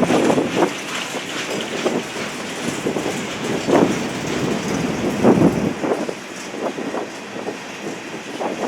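Train rolling past, its wheels clacking irregularly over the rails, with wind buffeting the microphone.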